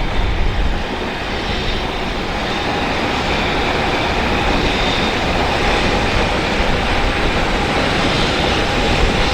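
Container freight train passing close by: a steady, loud rumble and roar of wheels on rail that builds slightly in the first couple of seconds and then holds.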